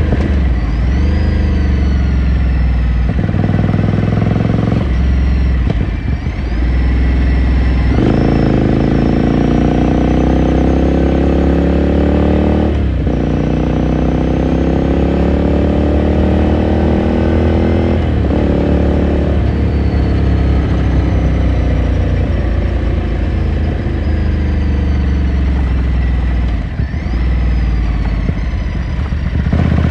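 Ducati Scrambler Sixty2's air-cooled L-twin engine heard onboard, pulling up through the gears: its pitch rises repeatedly with brief breaks at each shift. Over the later part the pitch falls as the bike slows.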